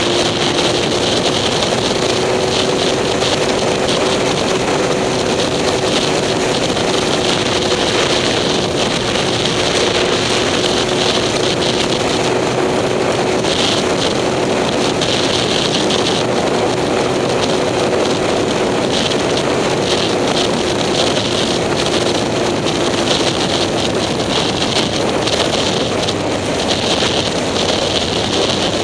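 A motor vehicle being driven, its engine running steadily under wind noise on the microphone. A steady engine tone holds and then fades out about three-quarters of the way through.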